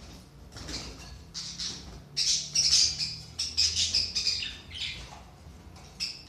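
Budgerigars chattering and squawking in a rapid run of short, high calls, loudest in the middle, with one last short call near the end.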